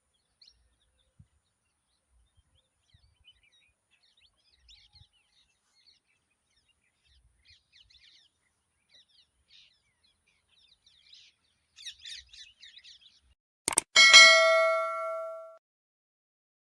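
Faint, scattered parrot chirps that grow busier near the end, then a sharp click and one loud metallic ding that rings and fades over about a second and a half.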